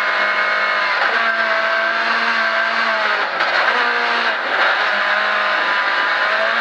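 Rally car engine running hard, heard from inside the cabin, its pitch dropping and climbing again with each gear change as it downshifts from fifth to third.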